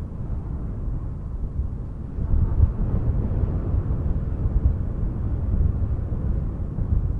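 Wind gusting against the microphone: a low, uneven buffeting rumble that grows stronger about two seconds in.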